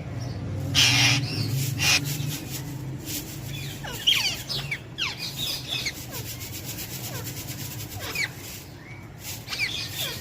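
Parrot calling in short chirps and squawks, many of them falling in pitch, with a scraping, rubbing noise about a second in.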